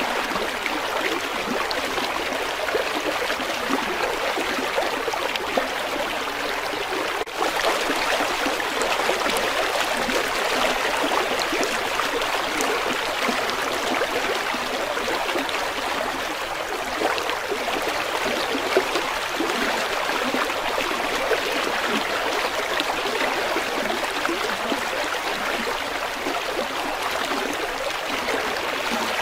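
River water flowing steadily, an even splashing hiss, with a momentary break about seven seconds in.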